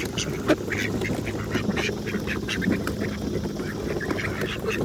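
A crowded flock of ducks quacking over food, with many short taps and scuffles among the calls.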